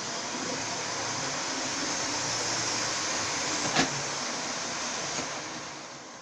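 OO gauge model train running on its track: a steady hiss-like running noise with one sharp click about four seconds in, fading away near the end.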